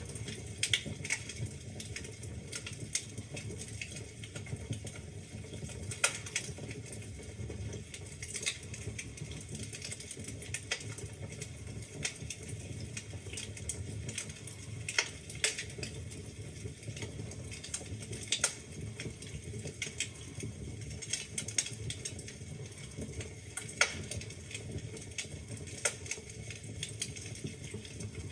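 Wood fire burning in a fireplace: a steady low rumble of flames with irregular crackles and sharp pops from the burning logs, a few pops louder than the rest.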